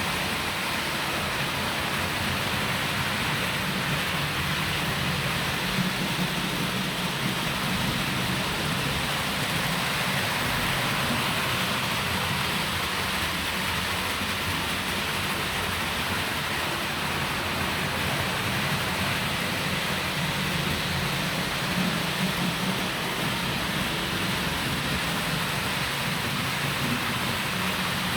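Roco HO-scale model locomotive (NS 1753) running steadily along the track, a continuous rolling noise of wheels on rail with a low motor hum.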